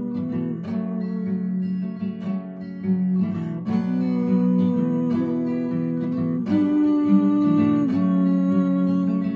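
Acoustic guitar played alone as an instrumental interlude, chords plucked and strummed and changing every second or so.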